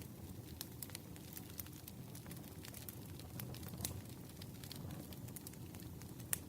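Campfire crackling: irregular sharp pops and snaps over a steady low rumble of the fire, with a louder pop near the end.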